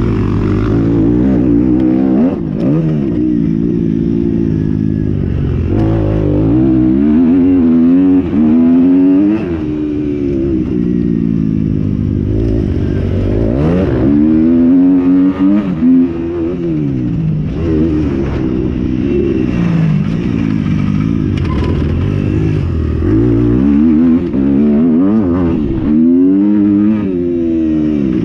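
Motocross motorcycles racing, their engines revving up and dropping off again and again as they accelerate and shift, with more than one bike heard at times.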